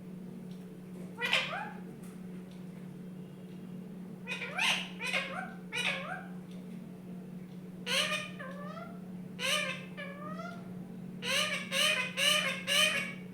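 Pet parrot giving short rising calls in scattered bursts, ending with a quick run of four.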